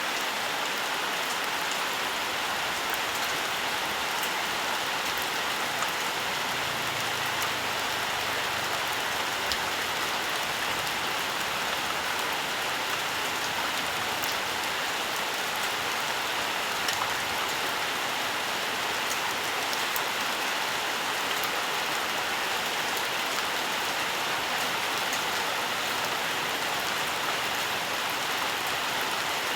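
Steady rain falling, with scattered individual drop ticks throughout.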